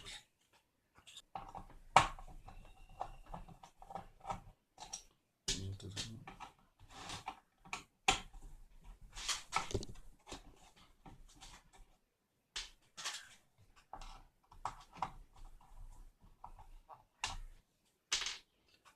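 Irregular clicks, taps and knocks of hands and tools working on the plastic and metal parts of an opened induction cooker, in short clusters with brief pauses, as it is taken apart to replace its stuck cooling fan.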